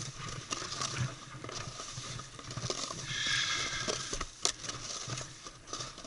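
Snowboard sliding over snow: a scraping hiss with scattered clicks and knocks, swelling briefly in the middle and with one sharp knock about four and a half seconds in.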